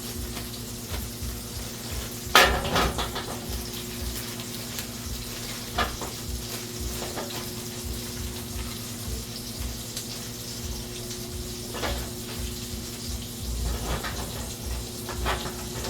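Kitchen cooking sounds: kitchenware clatters a few times, loudest about two and a half seconds in, over a steady low hum and a faint hiss like food sizzling in a pan.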